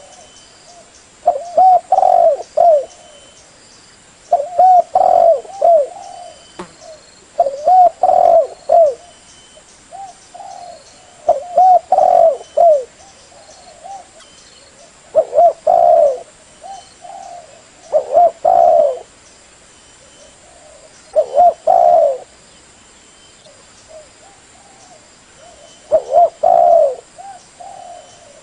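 Spotted dove cooing: a phrase of several rolling coos, repeated about every three to four seconds with softer coos in between. This is the call played to lure other spotted doves.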